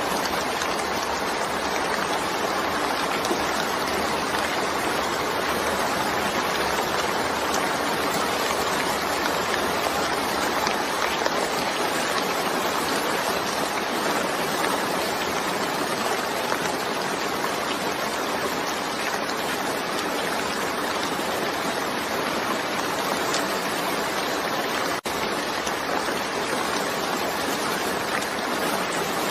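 Steady, unbroken rain, a dense even hiss of falling water with no thunder, broken once by a split-second dropout near the end.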